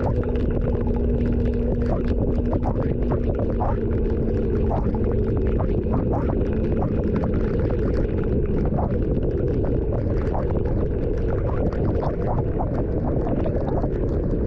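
Vehicle travelling in rain: a steady low rumble of engine and road noise, with a low hum that fades away about two-thirds of the way through, and many scattered sharp ticks of raindrops hitting.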